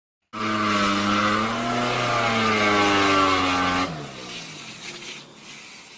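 Tractor engine revving hard and held high for about three and a half seconds, its pitch wavering. It then drops off sharply, falling in pitch to a quieter rumble.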